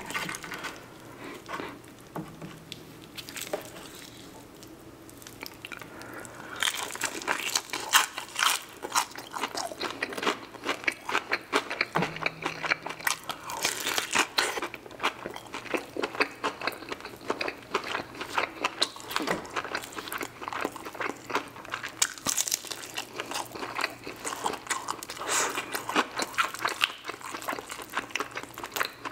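Close-up biting and chewing of crispy fried chicken: after a quieter first few seconds, a dense run of crunches from the batter starts about six seconds in and keeps on.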